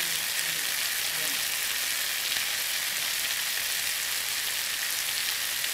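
Potatoes and soya chunks in spiced oil frying in a kadai, with a steady sizzle.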